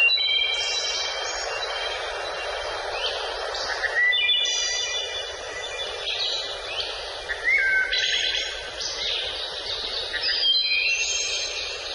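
Songbirds singing in short phrases of bright chirps and trills, a new phrase every few seconds, over a steady background hiss.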